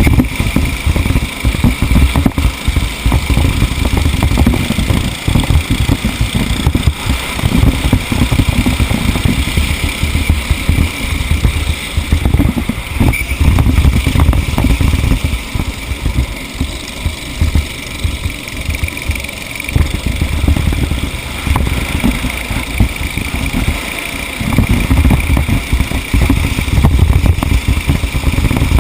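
A small racing engine running hard close up, its level rising and falling again and again as it revs up and eases off.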